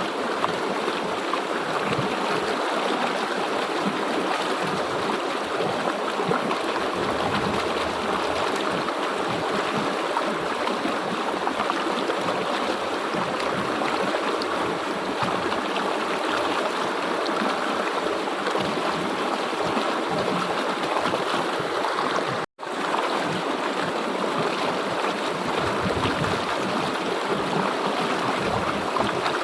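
River water flowing with a steady rushing sound, which cuts out for a split second about three-quarters of the way through.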